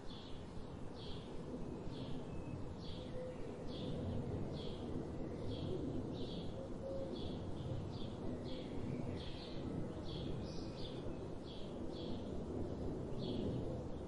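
A songbird chirping over and over, a short high note roughly once a second, over a steady low rushing noise.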